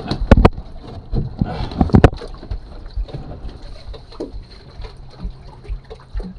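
Sharp knocks and clunks against a small boat, three of them in the first two seconds, then quieter rumbling handling noise as someone reaches down into a sunk boat.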